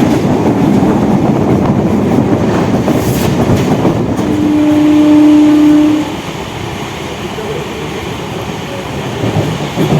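Suburban electric local train running at speed, heard from on board, with a steady rumble. The horn blows once for about two seconds a little before halfway. The running noise drops sharply just after the horn stops.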